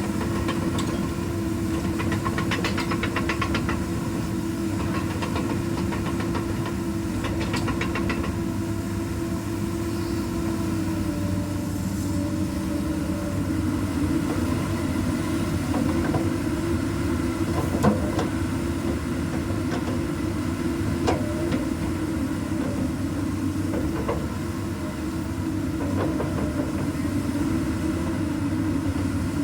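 Diesel engine of a Komatsu PC200 hydraulic excavator running steadily, with a few short knocks in the second half.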